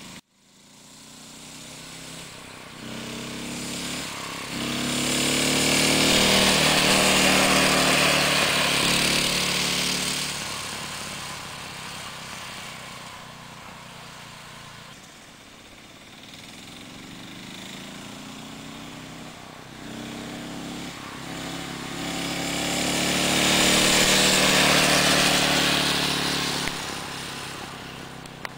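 5 hp Tecumseh single-cylinder engine of a mini bike running as the bike is ridden, growing loud twice as it comes close (about five to ten seconds in and again near the end) and easing off in between, its pitch rising and falling with the throttle.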